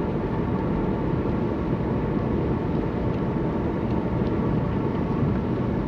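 Steady car engine and road noise heard from inside the cabin while driving at a constant pace.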